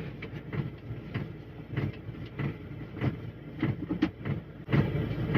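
Fuel being poured from a can through a funnel into a heater's tank, with irregular glugs and small clunks. A heavier low rumble joins near the end.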